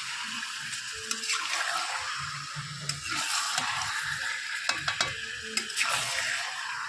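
Food sizzling in a hot pan while it is stirred, with a utensil clicking and scraping against the pan several times, most often in the second half.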